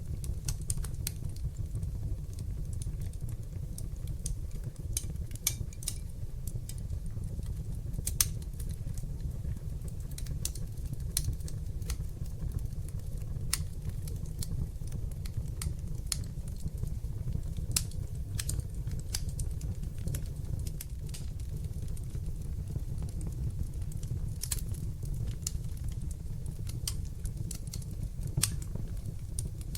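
Wood fire burning in a fireplace, crackling with sharp, irregularly spaced pops and snaps over a steady low rumble of the flames.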